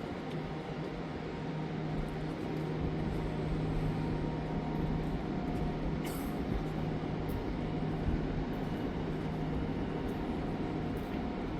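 Steady low hum of a cruise ship's machinery over a constant rumble, with a brief high hiss about six seconds in.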